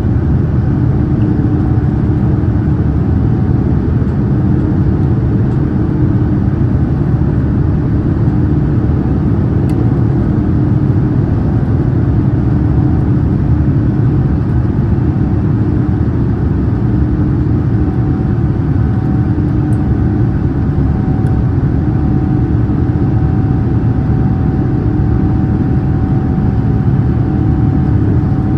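Boeing 787-9 cabin noise in flight: a steady drone of engines and rushing air, with a low hum. A faint higher steady tone joins in about two-thirds of the way through.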